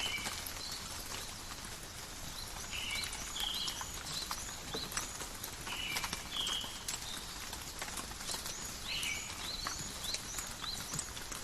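Steady rain falling in a forest, with drops tapping and ticking. Birds chirp at intervals over it, in short rising calls.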